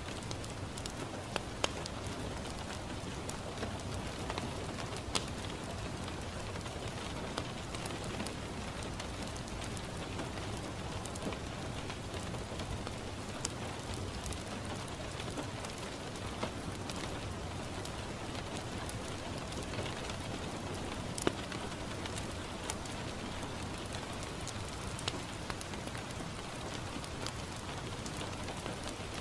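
Steady rain falling on a window pane, with scattered sharp pops and crackles from a wood fire in a fireplace; the loudest single pop comes about two-thirds of the way through.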